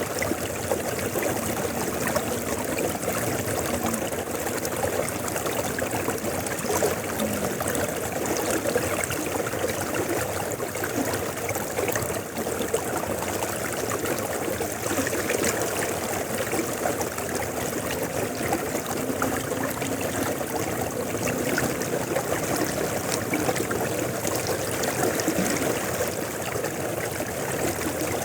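River water flowing, a steady, even rush of water with no breaks.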